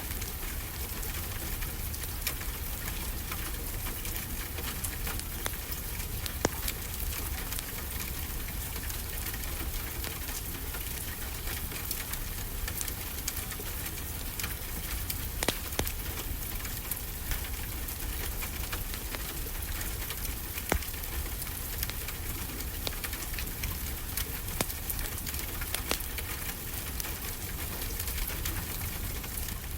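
Fireplace crackling, with scattered sharp pops, over a steady wash of ocean waves.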